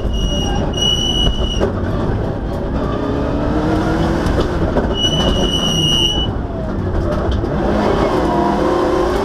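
Rally car engine heard from inside the cabin, driven hard with the revs climbing and dropping through gear changes. A steady high-pitched beep sounds twice, at the start and again about five seconds in.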